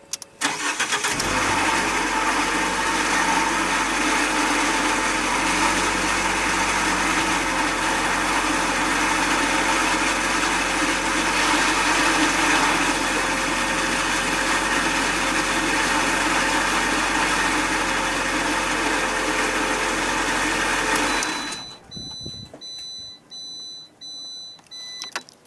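A Fiat 500 1.4 engine is started and runs with a loud, high-pitched rattling, grinding whine from the transmission, which the owner suspects is a worn clutch release bearing. About 21 seconds in the engine is switched off, followed by a series of short electronic beeps, about two a second.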